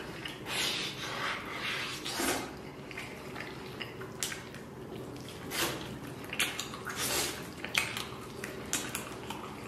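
Close-up eating sounds of stewed lamb leg meat torn off the bone by hand: wet chewing, biting and lip smacking, coming irregularly in short bursts.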